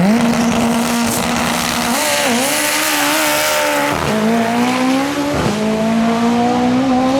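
Drag racing car launching hard and accelerating at full throttle, its engine note jumping up at the start and then dropping sharply at gear shifts around four and five and a half seconds in, climbing again after each.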